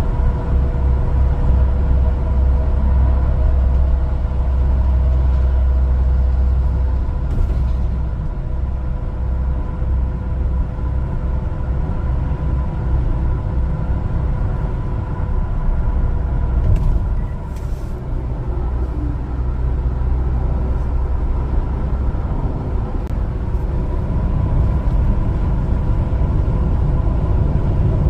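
One-ton LPG cargo truck driving, a steady low engine and road rumble that dips briefly about two-thirds of the way through, with a thin steady tone underneath.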